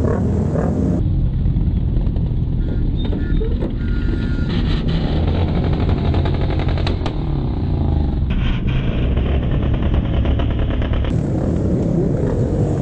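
Motorcycle riding sounds: an engine running under way with road noise. The tone changes abruptly about a second in and again around eight and eleven seconds in, with a few sharp clicks in the middle.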